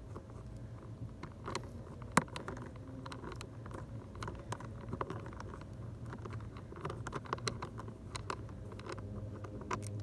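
Small clicks and taps of a T15 Torx screwdriver working a screw loose from the cabin filter housing, with one sharper click about two seconds in, over a steady low hum.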